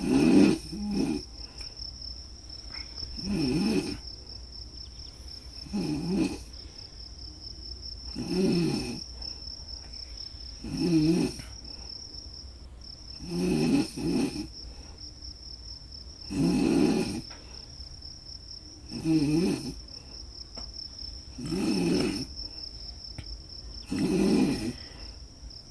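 Snoring, about ten snores at an even pace of roughly one every two and a half seconds, over the steady high trill of crickets.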